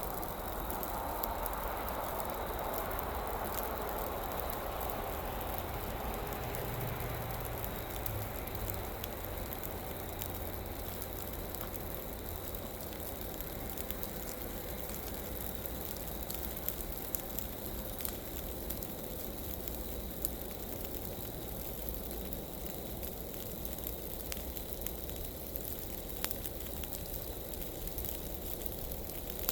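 Large piles of dry leaves burning: a steady rushing of flame with scattered sharp crackles and pops. The rushing eases a little over the first ten seconds.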